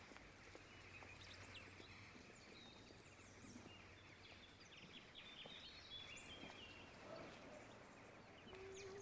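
Faint background ambience with small birds chirping now and then, close to silence.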